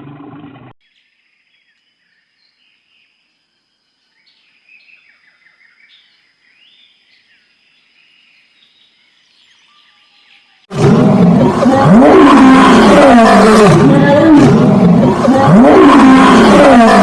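Faint high chirping of birds, then about two thirds of the way in a sudden loud chorus of overlapping animal calls, each rising and falling in pitch, repeating about once a second.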